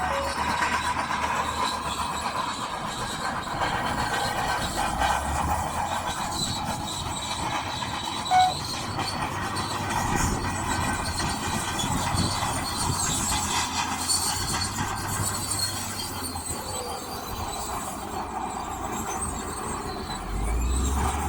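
Crawler bulldozer working, its diesel engine running under a steady squeal and clatter from the steel tracks, with one short loud squeak about eight seconds in.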